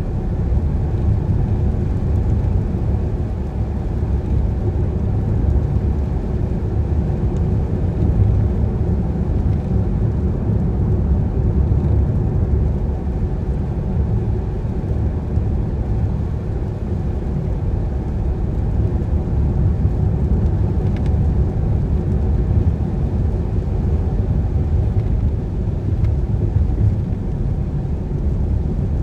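Car driving along a road: a steady low rumble of engine and tyres that holds an even level throughout.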